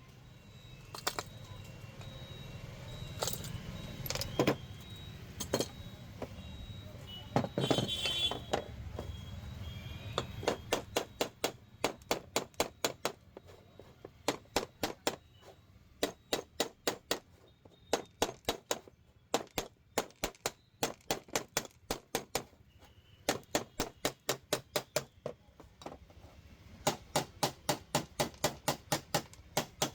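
Repair work on a pressure cooker: a few scattered knocks and handling noise, then runs of sharp, evenly spaced taps, about four a second, with short pauses between runs.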